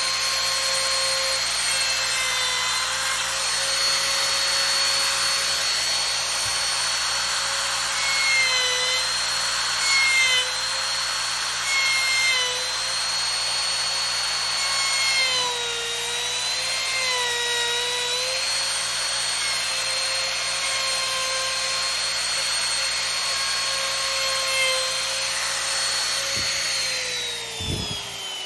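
Electric router with a cove bit cutting along wooden edges: a steady high whine that sags in pitch several times as the bit takes load. Near the end the motor is switched off and winds down, its pitch falling.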